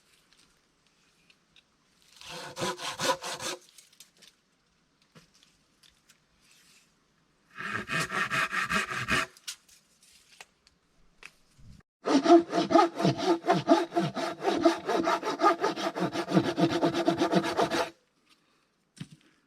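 Hand saw cutting through wood in quick back-and-forth strokes, in three bouts: two short ones, then a longer run of about six seconds.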